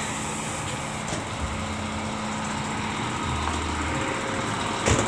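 Bus engine idling steadily, with a short knock near the end.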